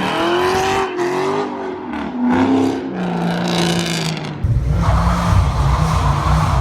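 Ford Mustang engines revving, their pitch rising and falling. About four and a half seconds in, this switches abruptly to a loud engine held at steady high revs under a hiss of tire noise.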